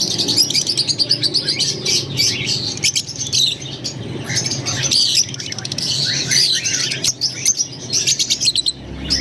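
A group of Fischer's lovebirds chattering, with many high, quick chirps and squeaks overlapping without a break. A steady low hum runs underneath.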